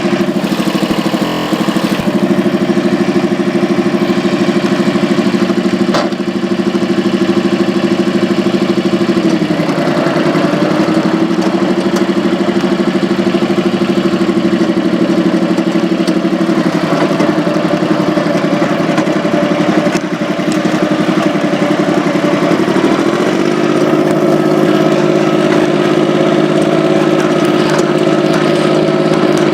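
Tractor engine running steadily. Its speed dips briefly about ten seconds in, drops again a few seconds later, then picks up to a higher steady note a little before the end.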